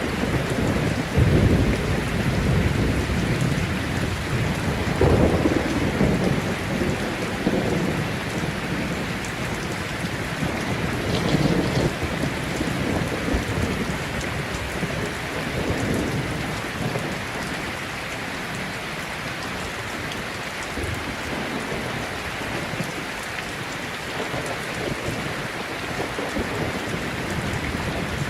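Heavy rain falling steadily, with rolls of thunder rumbling low in the first half, then steady rain alone.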